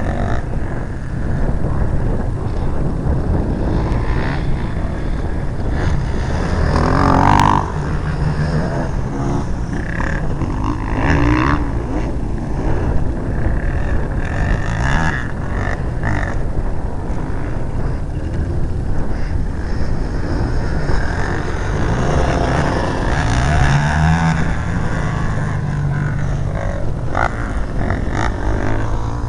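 Motocross dirt bike engine running over a constant low rumble, its pitch rising and falling as it revs, most clearly a little over three quarters of the way through.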